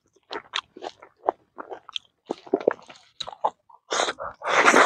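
A man chewing and smacking his lips close to a clip-on microphone as he eats rice and roasted meat by hand, with many short wet clicks. Near the end comes a longer, louder rush of noise.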